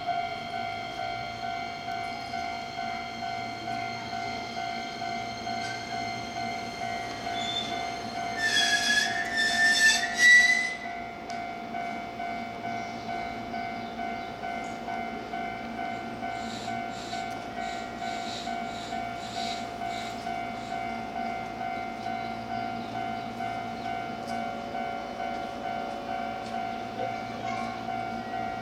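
Keihan 10000 series electric train at a station platform, a steady electrical hum running throughout. About eight seconds in comes a loud, high, slightly rising sound lasting about two seconds. Later comes a run of evenly spaced clicks from the wheels.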